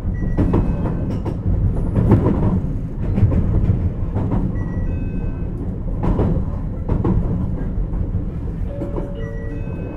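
JR Kyushu 817 series electric train running along the line, heard from on board: a steady rumble of wheels on rail, broken by sharp clacks at irregular intervals as the wheels cross rail joints.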